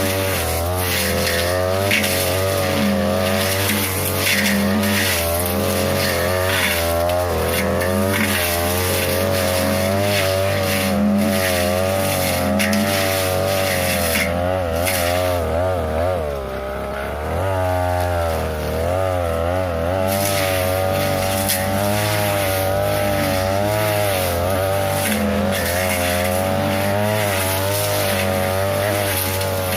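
A 42cc two-stroke brush cutter with a short metal blade runs at high throttle while cutting tall grass and woody saplings. Its engine note wavers under the load. About sixteen seconds in, it briefly drops in speed, then picks back up.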